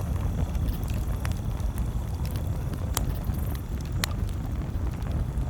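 Campfire crackling: scattered small snaps and a few sharper pops, the loudest about three and four seconds in, over a steady low rumble.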